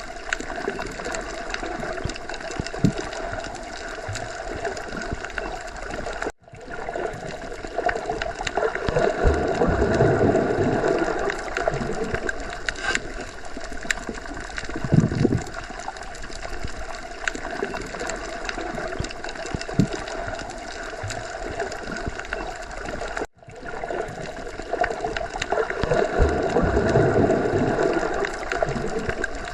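Underwater ocean ambience: continuous muffled rushing and gurgling of water that swells and ebbs slowly. It cuts out for an instant twice.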